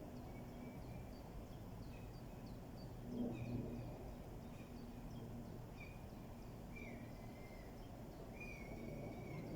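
Birds singing: a quick series of short, high chirps and longer whistled notes a little lower, over a faint low hum.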